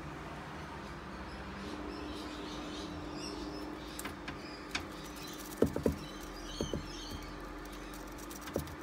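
Faint bird chirps over a steady low hum, with a few short light knocks about halfway through and one more near the end.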